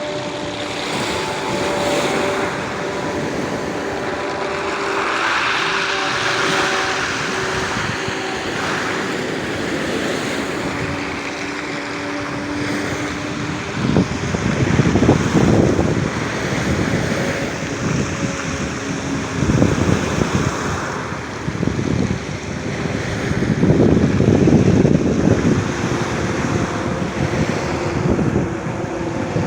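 Black Sea surf at night: waves breaking and washing on a beach, with the loudest surges coming every few seconds from about halfway through. Under the surf in the first half, and again near the end, runs a steady engine drone made of several held tones.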